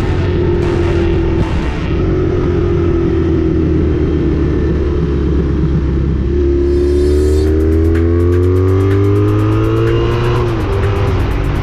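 V4 engine of a 1984 Honda Magna V65 running through a Kerker 4-into-1 exhaust under way. It holds a steady pitch at first, then accelerates with its pitch rising for several seconds, and drops suddenly near the end as it shifts up a gear.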